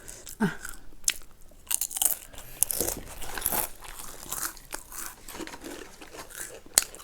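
Close-up crunching and chewing of crunchy snacks such as potato crisps, with irregular sharp crunches from repeated bites.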